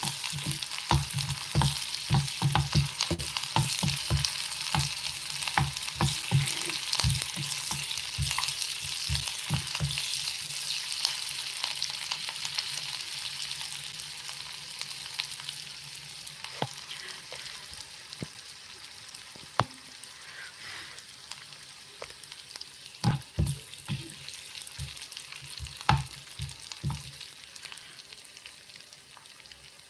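Chopped onions sizzling in oil in a mini cooker's nonstick pot, with a metal spoon stirring and knocking against the pot. The spoon knocks come thick and fast for the first ten seconds, then in a few short bursts later, while the sizzle slowly dies down.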